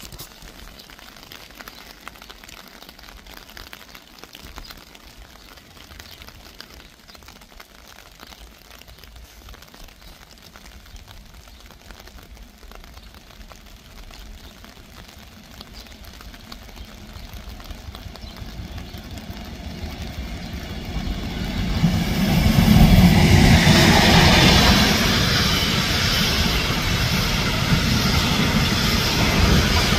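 Intermodal freight train hauled by a BLS Cargo Re 485 electric locomotive, approaching faintly at first and growing louder, then passing close from a little over twenty seconds in with a loud, steady rumble of wheels on rails and rattling wagons.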